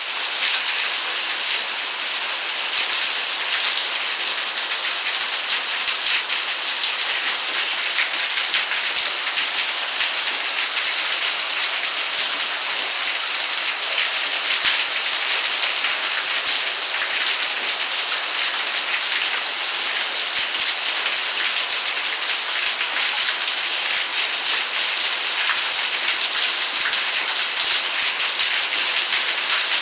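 Heavy rain falling steadily, an even hiss of countless drops striking surfaces with no let-up.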